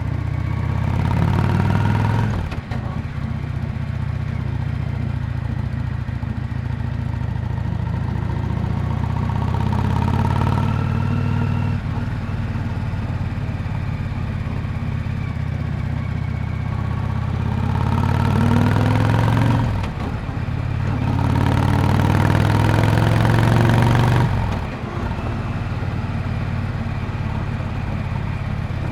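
Yamaha Drag Star 400 Classic's V-twin exhaust on the move, running at steady cruise. Three times the revs climb and then fall off sharply, as with an upshift or closing the throttle: near the start, about two-thirds in, and again shortly after.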